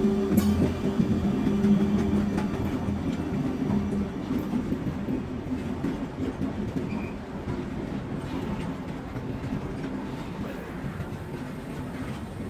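Loaded freight wagons rolling past behind a WAG-12 electric locomotive: a steady rumble of wheels with light clicks over the rail joints, slowly fading. A steady hum from the departing locomotive dies away in the first two seconds.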